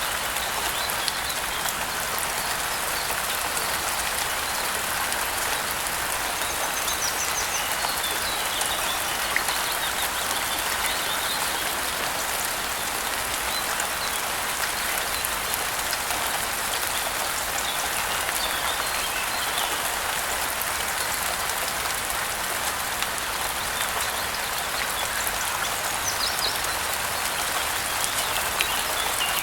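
Steady rain falling, with occasional high bird chirps over it at scattered moments.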